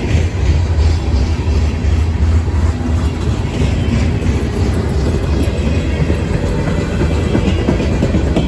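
A train rolling past, its wheels on the rails making a steady low rumble.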